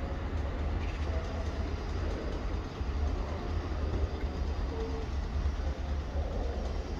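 Diesel multiple-unit trains running some way off, a Class 175 pulling away and a Voyager approaching, heard as a steady low rumble of engines and wheels on the track.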